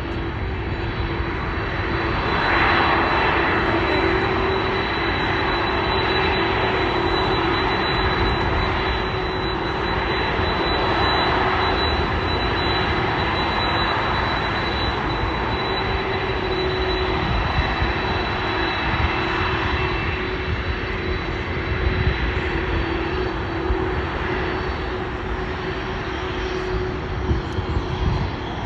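Jet airliner's engines running loud as it passes, a steady rush of jet noise with a high whine held over it, swelling about two seconds in.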